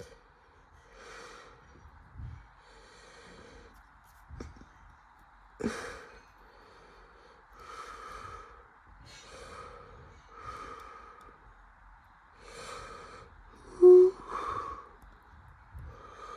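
Bridgestone Altus Newing washing machine in its intermediate spin: a steady whir with soft whooshes repeating every second or two. There is one brief, sharper and louder sound about fourteen seconds in.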